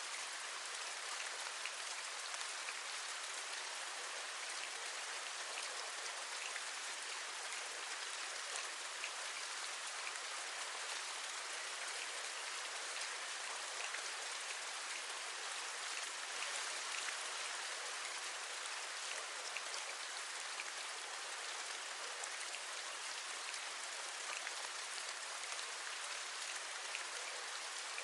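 Steady rain, with individual raindrops tapping on a window sill over an even hiss of rainfall.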